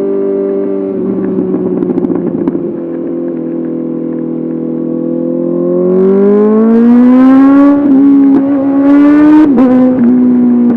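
Honda CBR 650R inline-four through an SC-Project SC1R exhaust, holding steady revs with a brief uneven stretch, then accelerating hard from about six seconds in. The pitch climbs and dips twice, near eight and nine and a half seconds in, as it shifts up.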